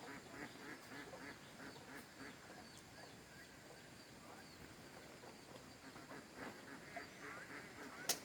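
Ducks quacking faintly in quick runs of short calls, with small birds chirping; a single sharp click near the end.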